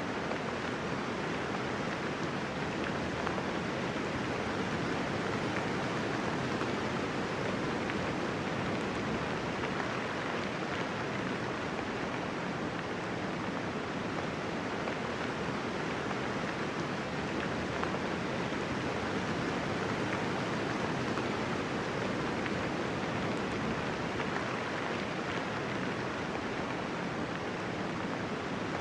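Steady, gentle rainfall with no thunder, an even hiss of many raindrops that holds at the same level throughout.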